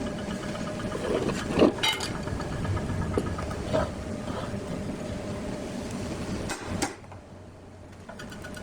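Wood lathe running with a steady machine hum, with scattered knocks and clicks; the sound drops away sharply about seven seconds in.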